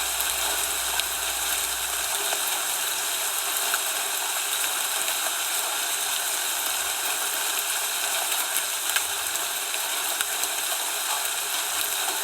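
Steady even hiss of falling precipitation, with scattered faint ticks. A low hum underneath cuts off about two seconds in.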